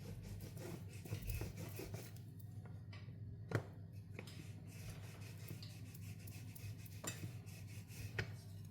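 Rolling pin rolling a crustless slice of bread flat: soft rubbing and scraping, with a sharp knock about three and a half seconds in and lighter clicks near the end. A steady low hum runs underneath.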